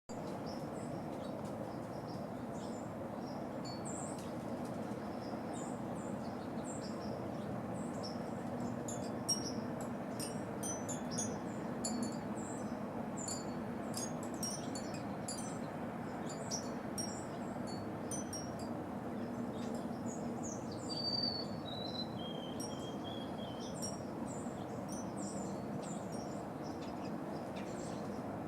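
Small birds chirping in many short, high calls over a steady background hum of outdoor noise; about two-thirds of the way through, one longer call slides down in pitch.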